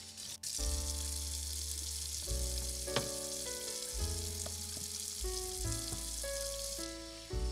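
Food sizzling and frying in a miniature saucepan, with light stirring and a sharp click about three seconds in, over background music of held notes and a bass line.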